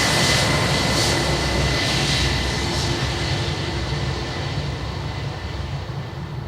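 Airliner's engines sounding as it passes close by, a broad rushing noise with a steady high whine, fading away over the last few seconds.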